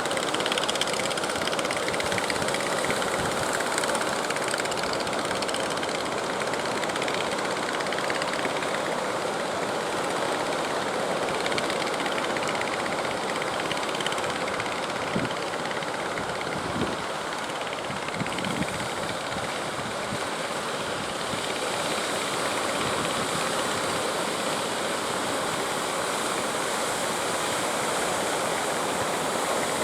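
Steady noise of strong wind and surf, with a few brief low thumps around the middle.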